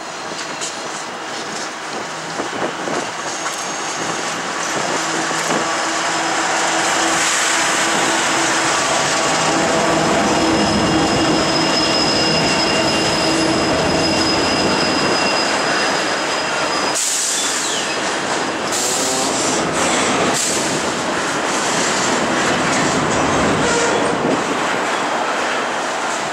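Union Pacific diesel locomotives followed by a double-stack intermodal container train rolling past on a curving run of track, wheels running steadily over the rails with a thin, steady high-pitched wheel squeal through the middle stretch.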